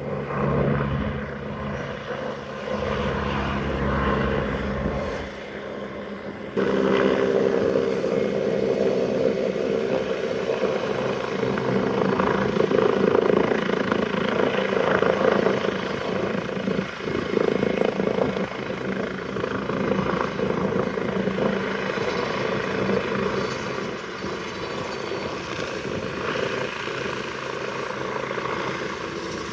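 Helicopter rotor and turbine running steadily close by, growing abruptly louder about six seconds in.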